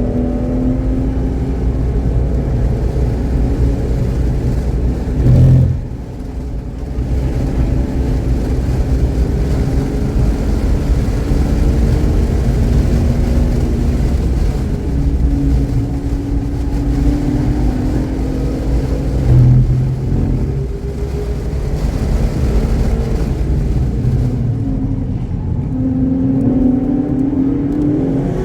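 Car engine running hard on a race track, its pitch rising and falling gently as the revs change. Twice there is a brief louder surge followed by a drop. It runs cleanly, without misfiring.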